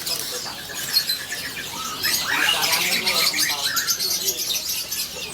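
Many caged songbirds chirping and calling at once, a dense high-pitched chatter of overlapping calls.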